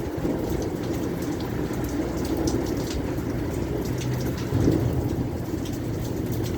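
Heavy rain pouring steadily in a severe thunderstorm, with wind, and a low rumble of thunder swelling about four and a half seconds in.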